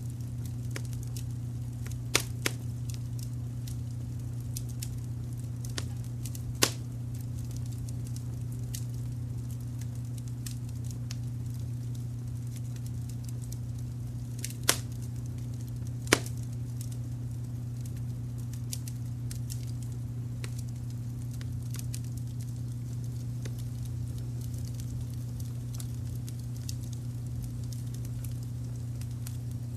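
Wood fire crackling with a scatter of small clicks and five sharper pops, over a steady low rumble of added brown noise.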